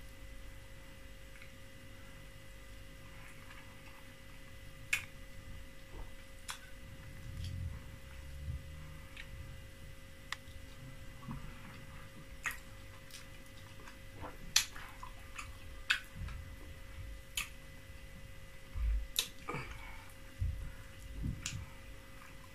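Close-up eating sounds of someone chewing soft fufu with soup: sharp wet mouth clicks and lip smacks scattered every second or two, over a faint steady hum.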